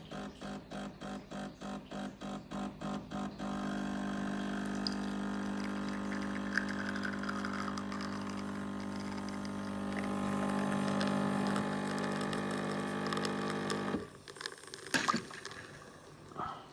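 De'Longhi Specialista Prestigio espresso machine's pump brewing a shot. It pulses about three times a second for the first few seconds, the pre-infusion stage before it builds pressure, then runs steadily with a humming buzz and cuts off about fourteen seconds in. A few clicks and knocks follow.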